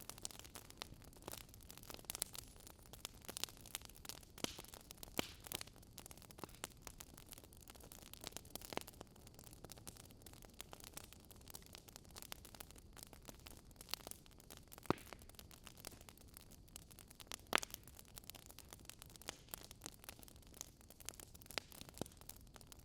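Wood fire crackling: burning logs give off a soft steady hiss with frequent irregular sharp pops and snaps. The loudest pop comes about two-thirds of the way through.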